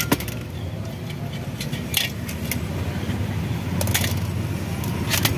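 A few sharp metallic clinks of tools and engine parts being handled, over a steady low rumble.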